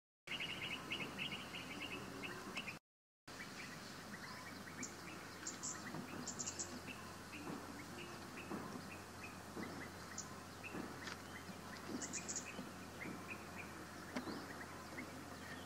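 Outdoor ambience with small birds chirping repeatedly in short high calls over a steady background hiss. The audio drops out completely twice for a moment in the first few seconds.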